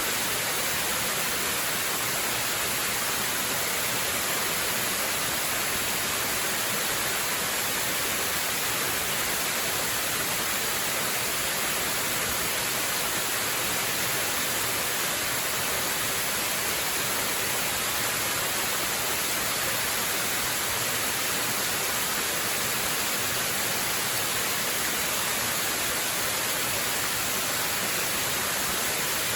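Waterfall: a steady, unbroken rush of falling water, heavy on the hiss.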